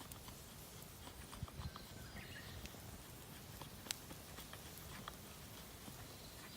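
Campfire of damp firewood burning quietly, with scattered faint crackles and an occasional sharp pop; the wood is not dry and burns poorly.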